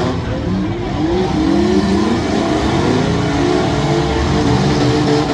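Engines of several compact demolition-derby cars revving at once, their pitches rising and falling against one another.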